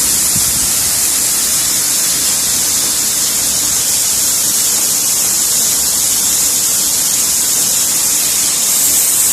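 Waterfall crashing close by: a loud, steady, hissing rush of falling water.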